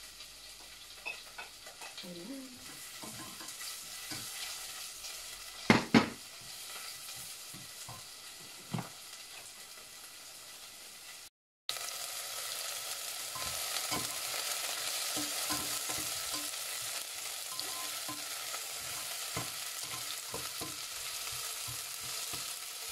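Sliced onions and peppers frying in oil in a pot, sizzling while a spatula stirs and scrapes through them. Two sharp knocks come about six seconds in. The sound cuts out briefly near the middle, and after that the sizzle is louder.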